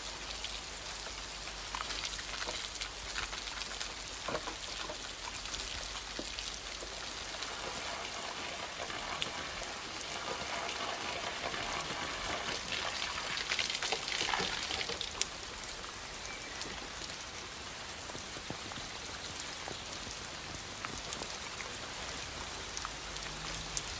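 Steady rain falling and pattering, with many small scattered drips and taps; it swells a little louder for a few seconds just past halfway.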